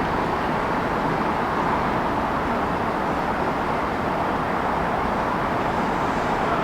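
Steady city traffic noise: a continuous, even wash of road traffic with no single vehicle or event standing out.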